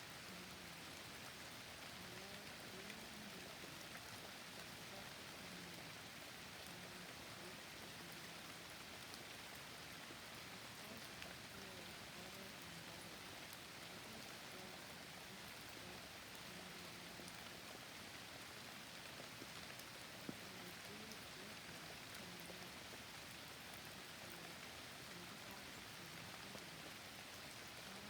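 Steady forest rain falling, an even hiss of drops with no break.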